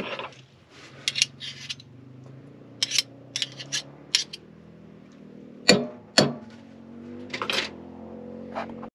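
Small kitchen clinks and knocks of spoons and containers while sauce ingredients are measured, with two louder knocks just past the middle, over a steady appliance hum.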